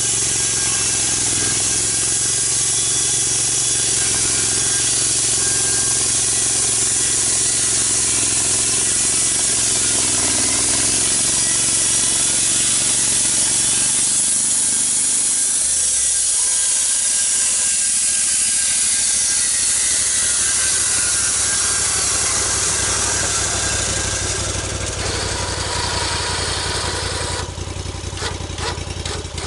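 Gasoline-powered log mill running under load as its saw cuts through a big log, the engine steady under a loud hiss of cutting. Near the end the hiss stops and the engine drops back to an even idle.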